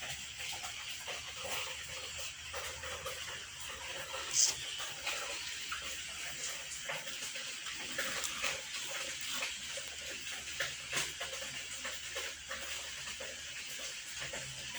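Domestic cats and kittens making brief calls and small movement sounds, with scattered light clicks and one short high sound about four and a half seconds in.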